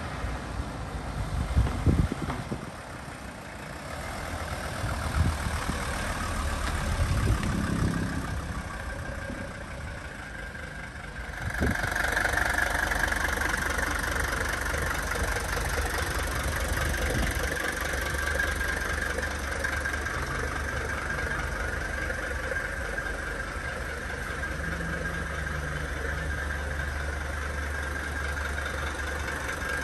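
1983 Mercedes-Benz 300TD estate's five-cylinder diesel engine, the car pulling up and then idling. About eleven seconds in the engine sound steps up louder and holds steady.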